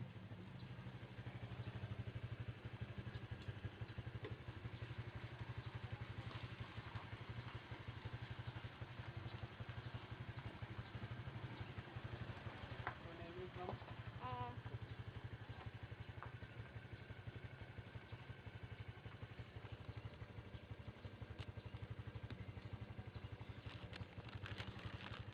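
A steady low machine hum with a fast, even pulse throughout, such as a small motor running, with faint short voice-like sounds about halfway through.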